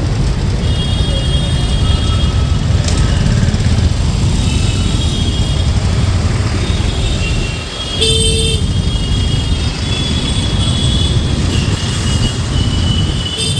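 City road traffic heard from the road: a constant low rumble with vehicle horns tooting again and again, and one louder horn blast about eight seconds in.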